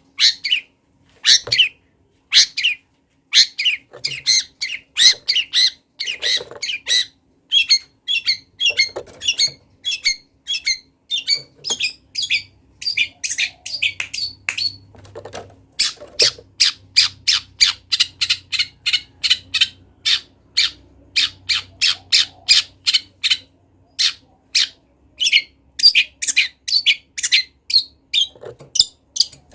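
Long-tailed shrike singing a rapid stream of short, sharp, harsh notes, its song filled with mimicked calls of other birds, with a long even run of quick repeated notes in the middle.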